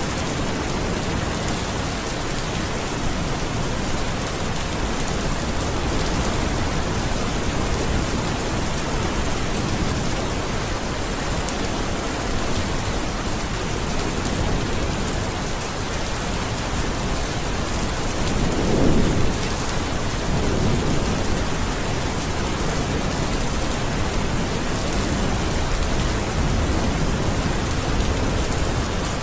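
Steady rain falling as a continuous hiss, with a low rumble of thunder swelling about two-thirds of the way through and fading again.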